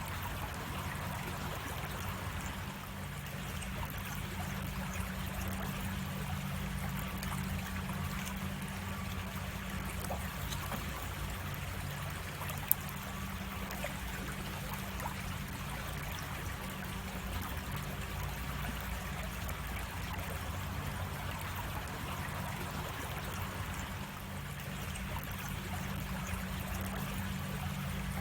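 Creek water cascading over rocks: a steady rush and trickle that goes on unbroken, with a faint low rumble beneath. A single sharp click sounds about halfway through.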